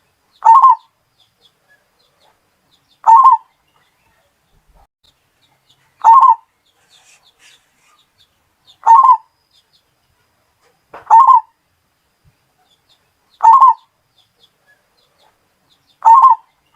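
Zebra dove (perkutut) singing: a short rolling coo phrase repeated seven times, about every two and a half to three seconds.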